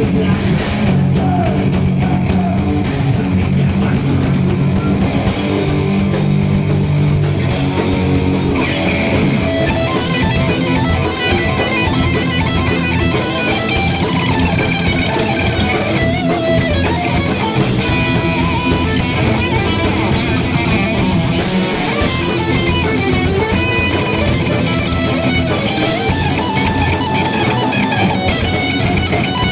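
Live heavy metal band playing an instrumental passage: distorted electric guitars, with a lead guitar line over bass and drum kit. Cymbals come in about five seconds in.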